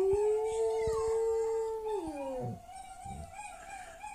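Dog howling: one long held note that slides down in pitch and dies away about two and a half seconds in, followed by a fainter, higher wavering howl.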